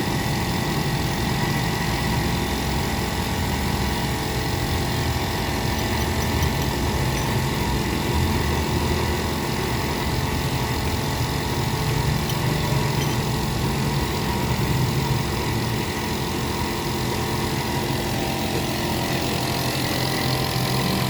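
Honda BR-V's petrol engine idling steadily during a tune-up, an even hum with no revving.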